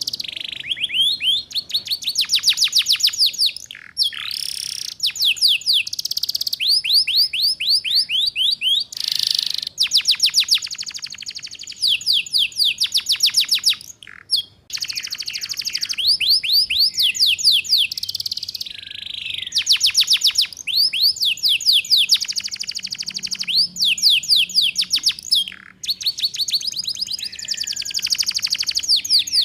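Domestic canary singing 'ngeriwik': fast trills of rapidly repeated sweeping high notes, in phrases of one to three seconds separated by brief pauses. This is the rolling trill style used as a master song for young canaries to learn.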